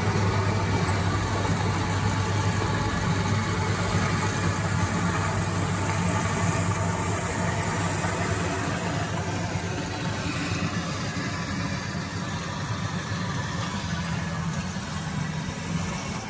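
Engine of a farm machine running steadily with a low hum, slowly growing quieter.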